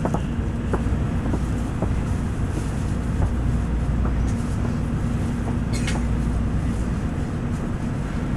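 Interior running noise of a 700A Series Shinkansen train: a steady low rumble with a faint hum, a few light clicks in the first two seconds and a brief hiss about six seconds in.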